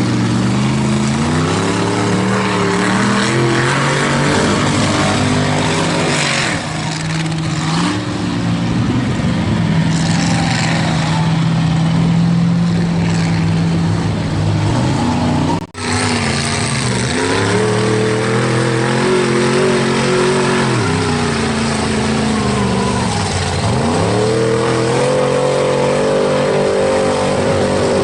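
Bronco mega mud truck's engine revving hard as it bogs through deep, sticky mud. The pitch rises and falls again and again, is held steady for a few seconds in the middle, and breaks off briefly about two-thirds of the way through.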